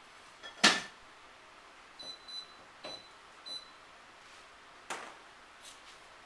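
A sharp click or knock, then four short high electronic beeps in quick succession, and another click a little later.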